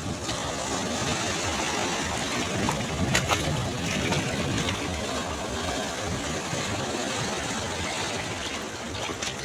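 Sea waves washing on the shore, a steady rush of surf with a little crackle of breaking water about three seconds in.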